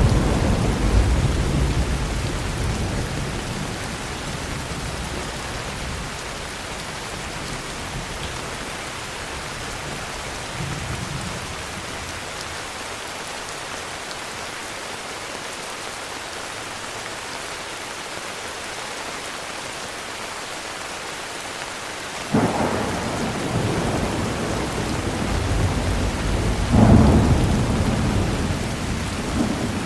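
Heavy rain falling steadily with thunder: a low rumble dies away over the first few seconds, then a sudden thunderclap about 22 seconds in rolls on and swells again near the end.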